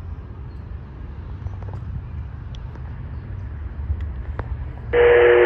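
Low, steady rumble of a CSX freight train rolling past, with a few faint clicks. Near the end a scanner radio cuts in loudly with a burst of static and a steady tone as a CSX equipment defect detector starts its broadcast.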